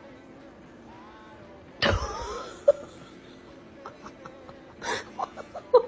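A sudden loud noise about two seconds in, then a person laughing in quick bursts near the end.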